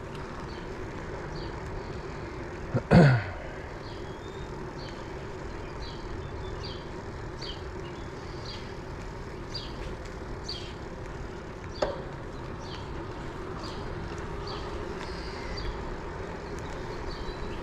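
Steady road and wind noise from riding a cruiser bicycle, with a quick, regular high chirping running through it. About three seconds in, the rider clears his throat once, loudly, and a single faint knock comes near the end.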